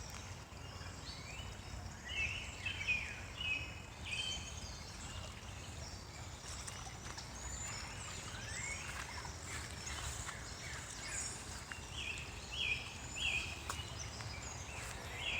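Several birds singing and calling: many short chirps and quick whistled sweeps, in lively bursts about two seconds in and again near the end. A low steady rumble runs underneath.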